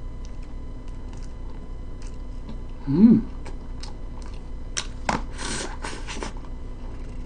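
Close-up chewing and mouth sounds of someone eating a fish sandwich, with a brief hummed vocal sound that rises and falls about three seconds in. Then a bite into the sandwich, with a few sharp, crisp crunches from about five seconds in.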